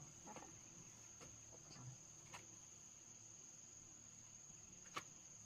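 Crickets or similar insects keeping up a steady high-pitched trill. A few faint clicks sound, with one sharper click about five seconds in.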